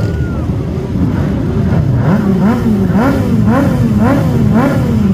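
Motorcycle engines running in a slow procession, with one engine revved again and again, its pitch rising and falling about twice a second, over the idle of the others.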